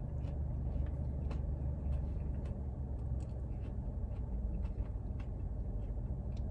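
Quiet chewing of crisp, skin-on steak fries, with faint irregular crunches, over a steady low hum inside a car.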